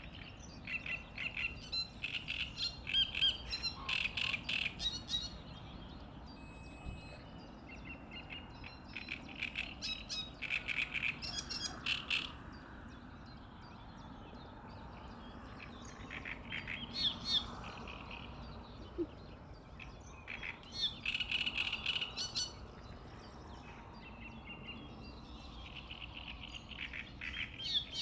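Songbirds singing: phrases of rapid, high chirping a few seconds long, repeated every several seconds with short pauses between.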